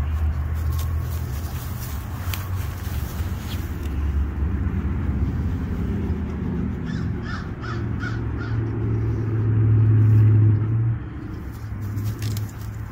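A bird calls in a quick run of four or five short calls about seven seconds in, over a steady low rumble that grows loudest near the end.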